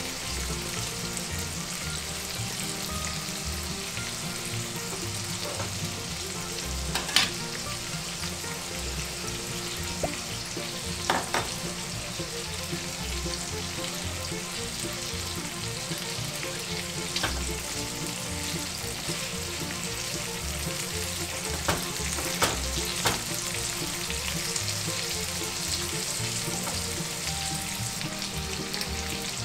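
Pork belly cubes and garlic sizzling steadily in olive oil in a frying pan over low heat. A spatula knocks against the pan a few sharp times as they are stirred.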